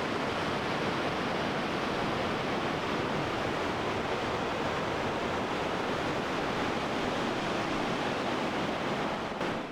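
Steady rush of a fast mountain river, an even hiss-like roar that cuts off abruptly at the very end.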